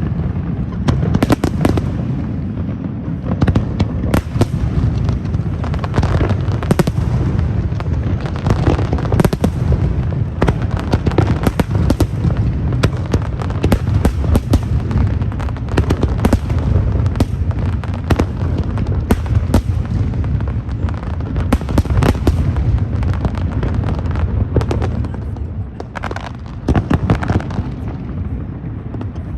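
Fireworks display: a dense, unbroken run of bangs and crackles over a constant low rumble, easing slightly near the end.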